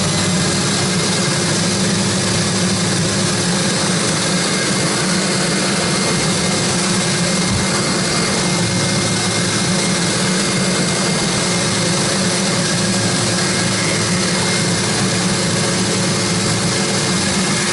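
Silver King Blue Max Air 2000 vacuum cleaner running steadily with its reassembled Wessel-Werk EBK 340 power head attached: a test run after the repair. A steady whine with an even rush of air.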